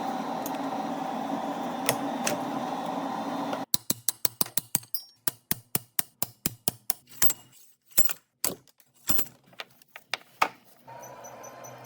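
A steady mechanical hum that stops suddenly, followed by a long, irregular run of sharp metallic clicks, a few a second, like hand tools working on metal; a fainter steady hum starts near the end.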